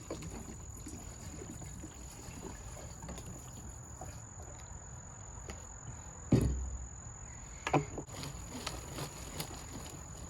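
Crickets trilling as a steady high-pitched background tone, with two sharp knocks about six and eight seconds in.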